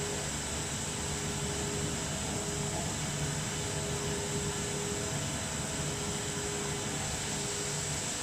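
Mazak FH-12800 horizontal machining center running its warm-up cycle: a steady machine hum with a few held tones.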